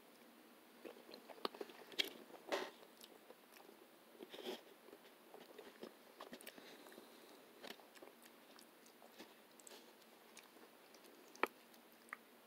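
Faint chewing and biting of a person eating a meal, with scattered soft clicks and taps of a fork. The sharpest click comes about eleven and a half seconds in.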